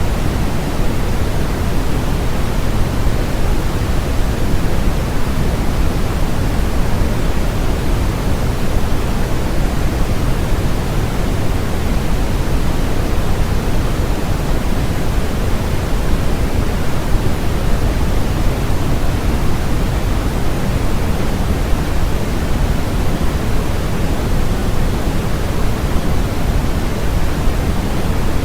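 Steady synthetic white noise, an even rushing hiss with more weight in the low end than the top, unchanging throughout.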